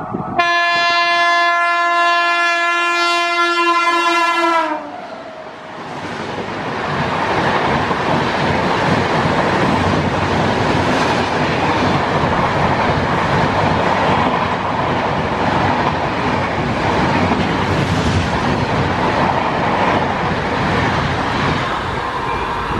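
WAP7 electric locomotive sounding one long horn blast of about four and a half seconds, its pitch dipping slightly as it ends. A moment later the express's passenger coaches rush past at speed, a loud steady noise of wheels on the rails.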